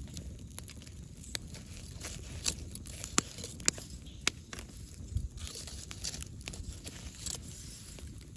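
Wood bonfire burning, with sharp, irregular pops and snaps from the burning firewood over a low steady rush.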